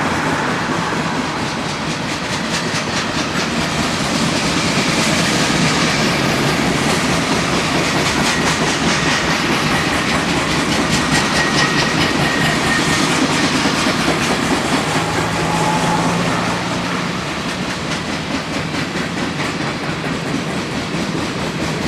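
CSX freight train's cars rolling past at steady speed, their steel wheels clicking over the rail joints.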